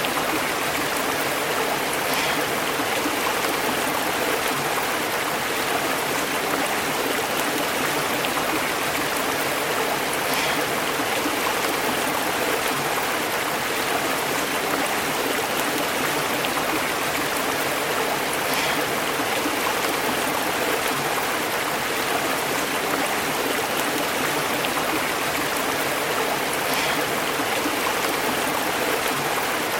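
Stream water burbling over rocks in a steady, unbroken rush, with a faint tick recurring about every eight seconds.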